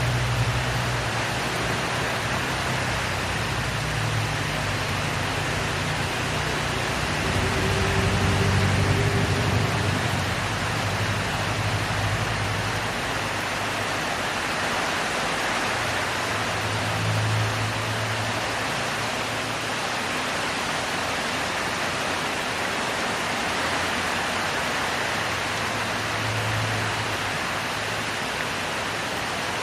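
Heavy rain falling steadily, an even hiss with no break. Beneath it a low hum swells and fades several times.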